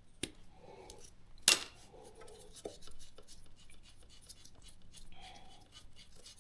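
Metal hand tools clinking and knocking as a wrench is worked to undo a bolt on the motorcycle's front wheel, with one sharp metallic clack about a second and a half in and a few lighter clicks after it.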